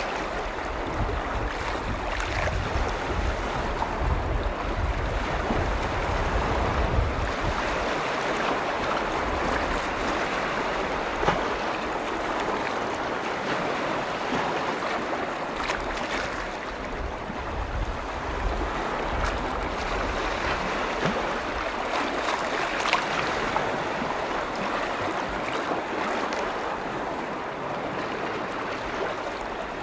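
Small lake waves lapping and splashing steadily against the shore of Lake Vänern, with light ticks of splashing water. Wind buffets the microphone as a low rumble for the first several seconds and again briefly about two-thirds of the way through.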